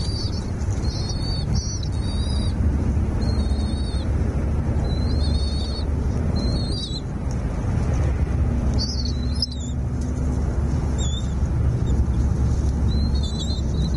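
A small songbird chirping repeatedly in short, high-pitched calls, about one a second, over a steady low rumble.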